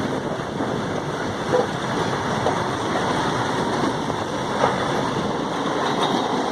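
Goods train rolling along the track: a steady rumble of wagon wheels on the rails, with a couple of short knocks.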